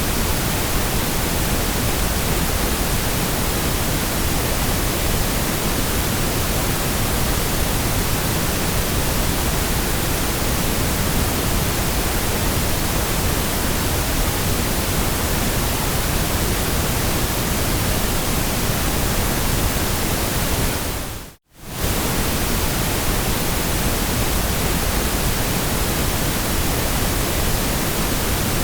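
Steady white noise, an even full-range hiss with no pattern in it. About 21 seconds in it fades to silence for a moment and comes straight back.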